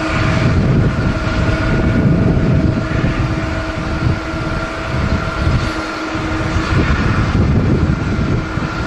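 Jet airliner engines running with a steady whine, under heavy gusting wind rumble on the microphone. The whine fades about halfway through.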